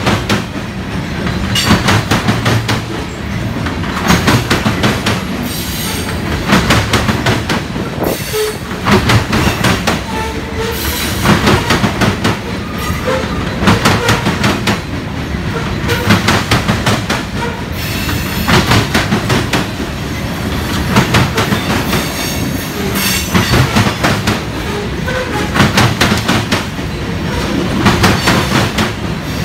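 Loaded-train freight cars, Union Pacific covered grain hoppers, rolling past at close range over a steady rumble. Their wheels clack over the rail joints in a group about every two seconds as each car's trucks cross.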